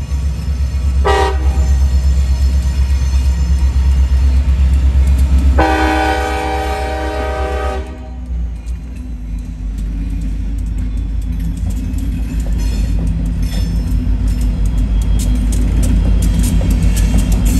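Freight train led by diesel locomotives passing close by, the engines giving a heavy low rumble. The locomotive horn sounds a short blast about a second in, then a longer blast of about two seconds. Later the wheels clatter in quick clicks over the rail joints as the locomotives go by.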